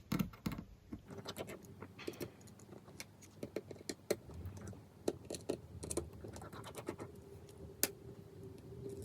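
Irregular small clicks and taps of a precision screwdriver and small metal parts being handled on an iPhone 5s during disassembly. A faint steady hum sets in about seven seconds in.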